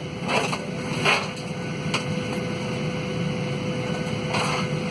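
Steady cabin noise inside a Boeing 737-800 airliner: a low rumble with a steady mid-pitched hum. A sharp click about two seconds in, and a few brief faint sounds near the start and near the end.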